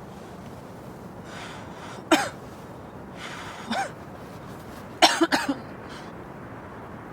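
A person coughing: one sharp cough about two seconds in, a softer one near four seconds, then a short fit of three or four coughs about five seconds in.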